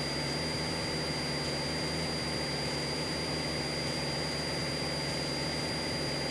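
Cessna 172SP's four-cylinder Lycoming engine and propeller droning steadily in cruise flight, heard inside the cabin, with a faint steady high whine over it.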